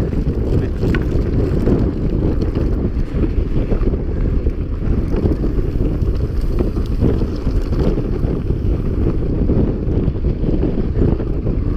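Wind rushing over the microphone of a camera on a moving mountain bike, a steady low rumble.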